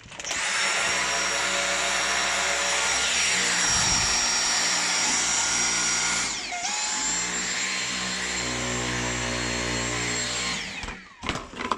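Dyson V6 cordless stick vacuum running, its small high-speed motor giving a steady high whine. About two-thirds of the way through it dips briefly and carries on at a lower pitch, then winds down near the end.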